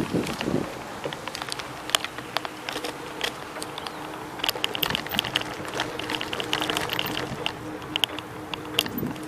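Bicycle clicking and rattling while being ridden: many quick, irregular clicks over a steady low hum.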